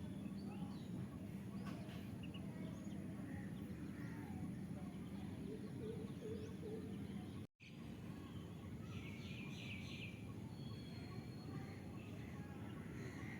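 Several birds chirping and calling at dusk over a steady low background rumble, with a quick run of chirps about two-thirds of the way in. The sound drops out for a split second about halfway through.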